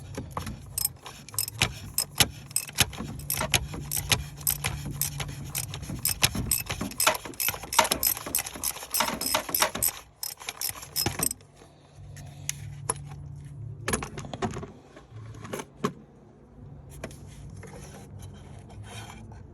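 Socket ratchet clicking rapidly as the oil filter housing cap of a Chevy Ecotec 1.4 turbo is unscrewed. The clicking thins out about eleven seconds in to a few scattered metallic clicks and knocks.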